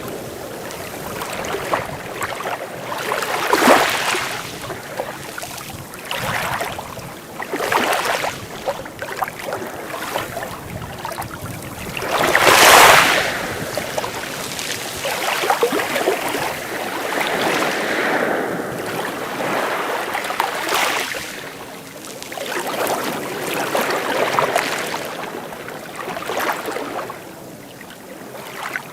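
Sea waves breaking and washing in, surging and falling back every few seconds, with the biggest wave about twelve seconds in.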